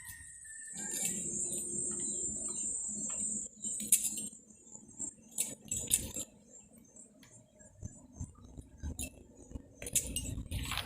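Steady high-pitched insect buzzing over a low rumble for the first three seconds or so, then scattered light clinks and knocks, typical of handled utensils.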